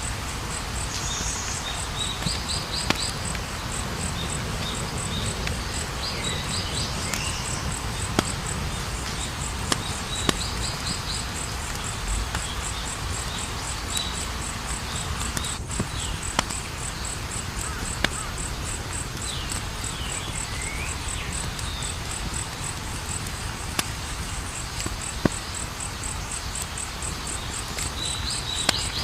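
Campfire burning with a low rumble and occasional sharp crackles, over a steady, evenly pulsed chirping of crickets. Short gliding chirps come and go in the background.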